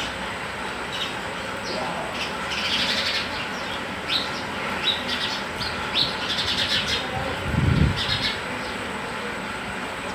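Sparrows chirping in short, quick notes throughout. A low thud about seven and a half seconds in.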